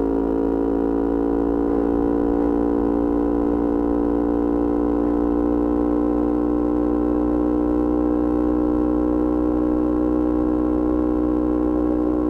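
Yamaha R25 parallel-twin engine through a Kea Speed aftermarket exhaust, held at steady high revs. It gives an even drone whose pitch creeps slightly upward over the first few seconds and then stays level.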